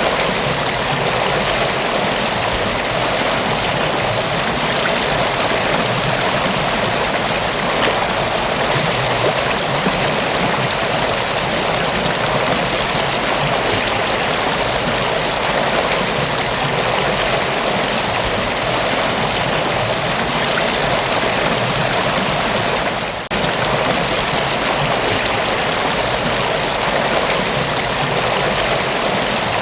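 Mountain waterfall: a steady, even rush of falling water, with one brief dip in level about three-quarters of the way through.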